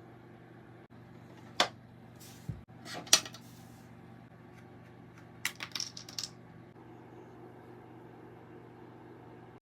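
Light clicks and taps of small hard objects being handled, over a low steady hum. There are single taps near the start, a double tap about three seconds in, and a quick cluster of taps around the middle.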